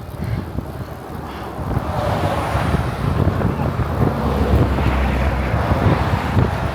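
Wind buffeting the microphone of a handheld camera on a moving bicycle, a dense rumble that grows louder about two seconds in as the bike picks up speed.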